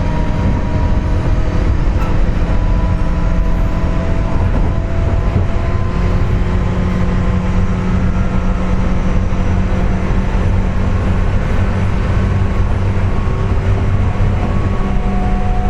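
Running sound of a JR West 201-series armature-chopper-controlled electric train heard from inside the motor car at speed: a steady rumble with several faint whining tones that drift slightly in pitch. The whine is the car's strong 'jet sound', caused by electrical erosion of the motor bearings.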